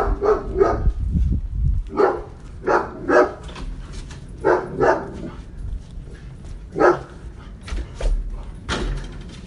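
A dog barking, about eight short barks in groups of two or three, with pauses between the groups. A low rumble runs underneath during the first two seconds.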